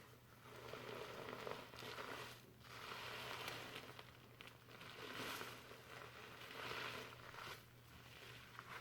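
Fingers scrubbing foamy shampoo lather through hair: a soft crackling rustle that swells and fades in repeated slow strokes.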